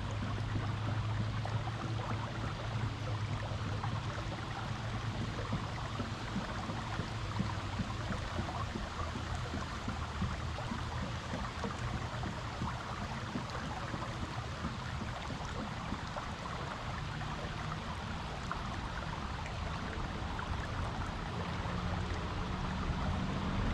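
Creek water flowing and gurgling over rocks, a steady rush with a low rumble underneath.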